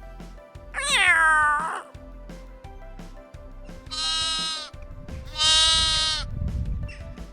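Sheep bleating: two long bleats, one about four seconds in and one more than five seconds in, over background music with a steady beat. An earlier call about a second in falls steeply in pitch.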